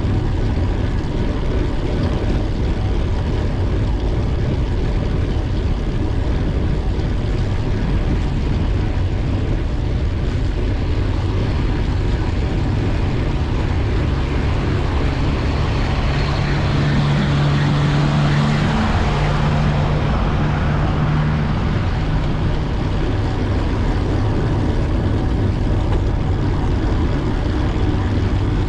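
Steady wind rush and rumble on the camera's microphone while riding a bicycle. About fifteen seconds in, a motor vehicle's engine hum swells as it passes, then fades away after about twenty seconds.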